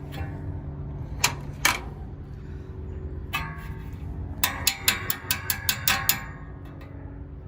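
Hand tools working on metal fan-motor hardware: two sharp clicks, a short ringing metallic clatter, then a quick run of about eight clicks, as fasteners are worked. A steady low hum sits underneath.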